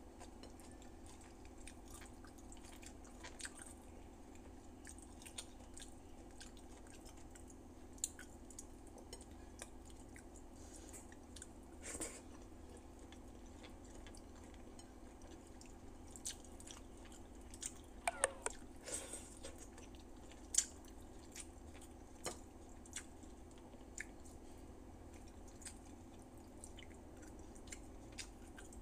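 A person chewing and eating with the fingers, close to the microphone: soft, irregular mouth clicks and smacks, a few sharper ones, over a steady low hum.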